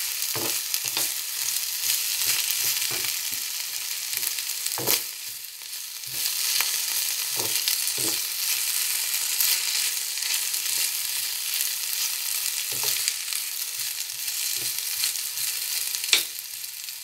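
Julienned potatoes and onion sizzling in hot oil in a frying pan, with a steady hiss. A utensil stirring them scrapes and knocks against the pan now and then, the sharpest knock near the end.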